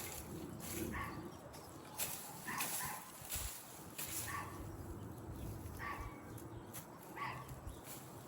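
A dog barking, about five short barks spaced a second or two apart, with light rustling and clicks in between.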